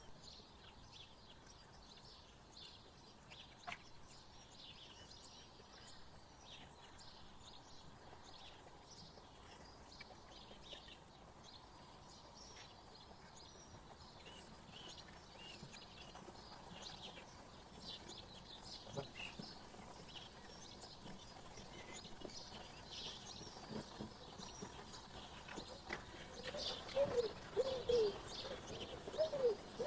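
Wild songbirds chirping and twittering faintly, many short high notes scattered throughout. Near the end a dove coos in a few louder, low notes.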